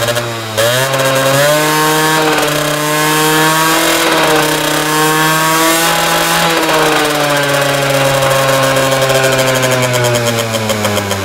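Peugeot Speedfight 2 two-stroke scooter engine with a Pro Replica tuning exhaust, revving: the pitch drops briefly near the start, climbs back, then swells up and eases down again in slow waves with a buzzy, chainsaw-like note.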